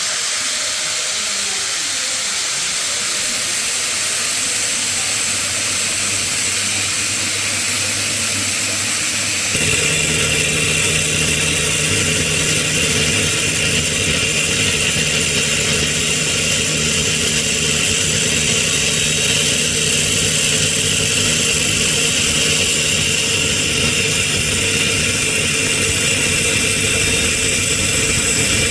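Loud, steady machine noise with a strong hiss from a workshop tool, and a lower motor hum that joins about ten seconds in.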